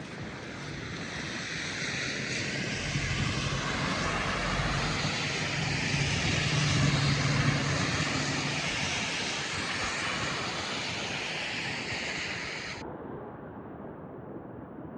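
A passing engine with a low hum and a rushing noise, swelling to its loudest about seven seconds in and then fading away.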